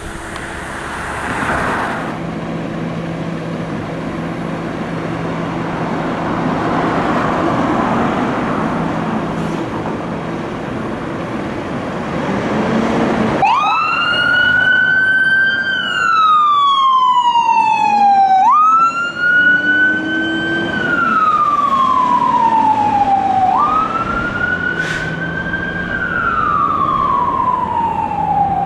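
A steady hiss and rumble, then about thirteen seconds in a siren starts wailing: each cycle climbs quickly and slides slowly back down, about five seconds per cycle, three cycles in all.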